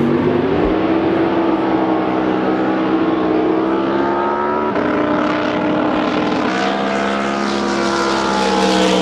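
Drag boat engine running at full throttle through a pass, its pitch slowly climbing, dipping briefly a little past the middle and then rising again.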